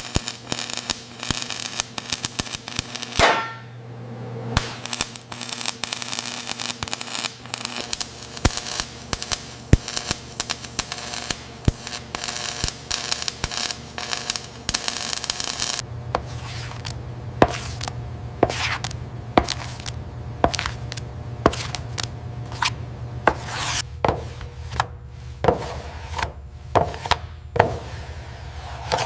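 Workshop hand-tool work: repeated scraping and rubbing punctuated by sharp knocks and taps. About halfway through the pattern changes and a steady low hum joins in under sparser, louder taps.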